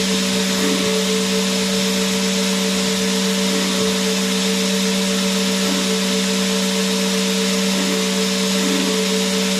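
Vacuum cleaner motor running steadily, a constant hum with a higher whine over a wide rushing hiss, holding the same level throughout.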